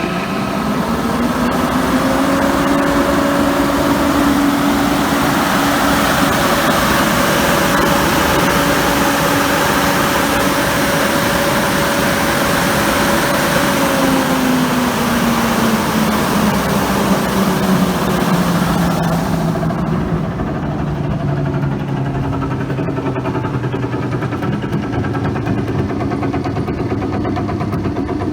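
Viron-style 20 HP poly exhaust blower with a three-phase 480-volt motor running at full speed with a steady whine over a loud rush of air, after coming up to speed. About halfway through the whine starts falling in pitch as the blower coasts down after being switched off, and the air rush drops away suddenly a few seconds later.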